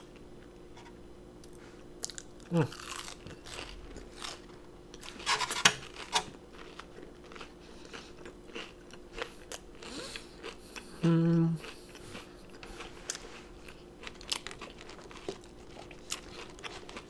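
Crunching and chewing on a fried onion ring dipped in cheese sauce, close to the microphone, with scattered crisp bites. There is a short hum from the eater about eleven seconds in.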